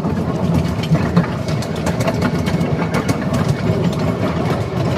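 Ride-on miniature railway train running along the track: a steady low rumble with scattered sharp clicks.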